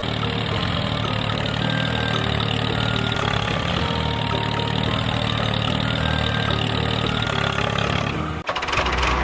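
An engine idling steadily. It cuts off suddenly about eight and a half seconds in.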